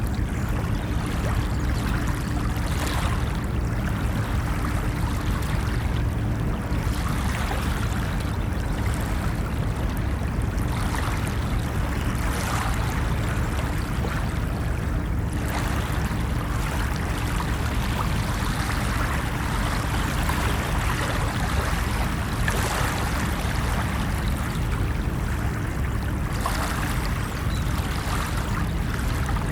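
Ocean waves: a steady low rumble of surf, with a wash of hiss swelling up every few seconds as waves break and run up the beach.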